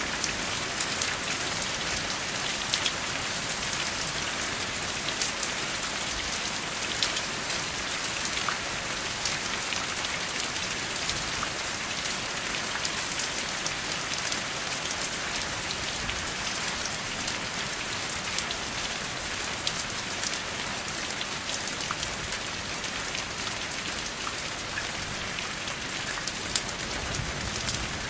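Steady rain without thunder: an even hiss of rainfall with many scattered sharp drop hits.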